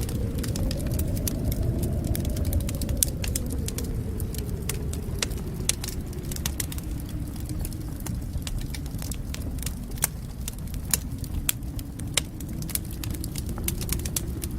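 Wood fire burning in a fireplace: a steady low roar of flames with frequent sharp crackles and pops from the burning wood.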